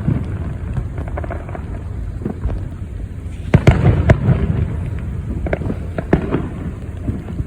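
Fireworks going off: a series of sharp bangs and cracks, loudest in a cluster about three and a half seconds in, over a steady low rumble.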